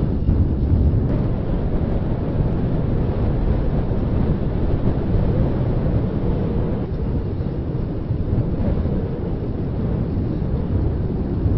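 Wind buffeting the microphone of a handheld ZOOM Q3 recorder carried on a moving bicycle: a steady low rumble of wind noise.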